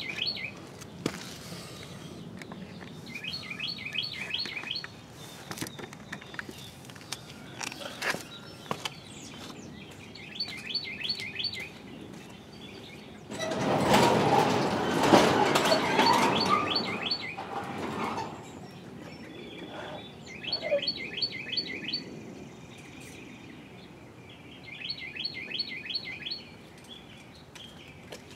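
A songbird repeating a short phrase of quick, evenly spaced high notes every few seconds, six times. Scattered clicks and knocks of hand tools on a small engine sound under it, and a louder stretch of rustling noise lasts several seconds about halfway through.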